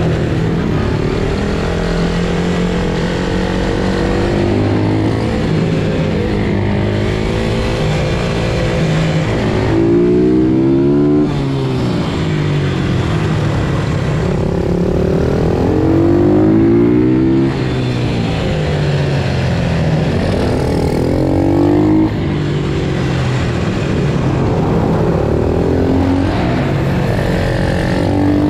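Pit bike engine being ridden hard, its note climbing under throttle and then dropping sharply several times as the revs fall or the gears change.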